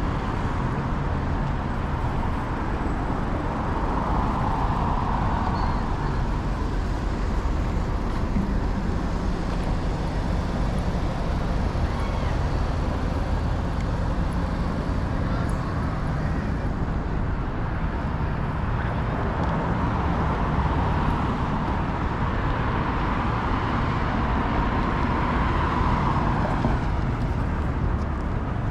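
City street traffic: a steady low rumble of vehicles, with passing vehicles swelling up briefly about four seconds in and again over a longer stretch in the second half.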